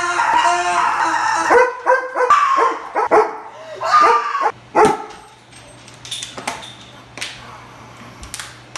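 A dog yipping and whimpering in a run of high, gliding cries over the first few seconds, then only a few scattered short sounds.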